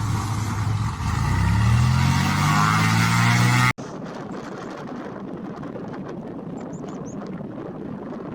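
A loud aircraft engine whose pitch climbs steadily from about a second in. It cuts off abruptly just under four seconds in and gives way to a quieter, steady rushing noise.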